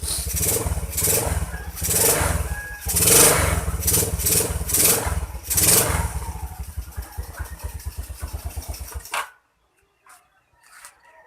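Yamaha Crypton Z motorcycle's single-cylinder four-stroke engine running and being revved in several swells. It then settles to a steady pulse and is switched off suddenly about nine seconds in.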